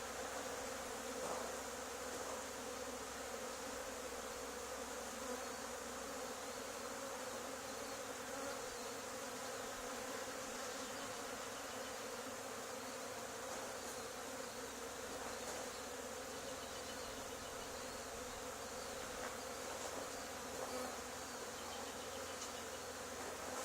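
A swarm of honey bees buzzing, a steady drone of many bees in flight around a hive box they have just been scooped into.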